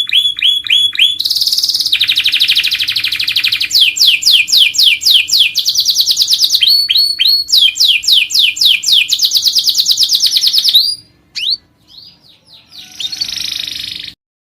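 Domestic canary singing a long song of fast, rolling trills and rapidly repeated falling notes. It breaks off about eleven seconds in, and a few fainter notes follow before the sound stops.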